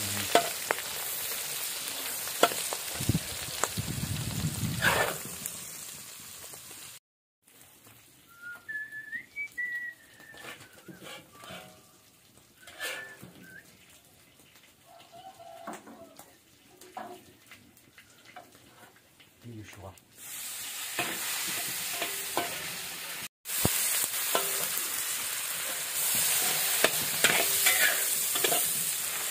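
Eggs frying in hot oil in an iron wok, a loud steady sizzle with a metal spatula scraping the pan. In a quieter stretch in the middle there are scattered utensil clicks and one short chirp. The sizzle returns near the end as tomatoes fry in the hot oil.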